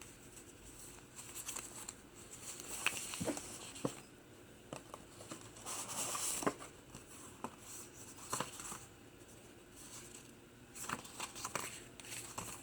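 Pages of a handmade paper journal being turned and handled: intermittent paper rustling with soft taps and clicks, with a couple of longer rustles as pages are flipped.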